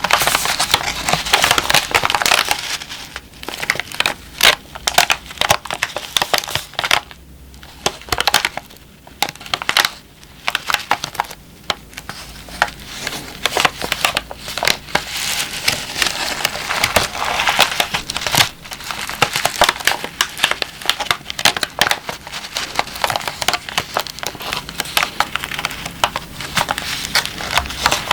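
Moisture-removal (dehumidifier) pack crinkled and crushed close to the microphone: dense, irregular crackling that starts suddenly and eases off for a few seconds in the middle before growing busy again.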